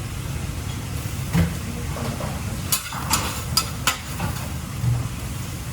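Busy kitchen: a steady hum and hiss, with a handful of sharp clinks and knocks of utensils on pans in the middle.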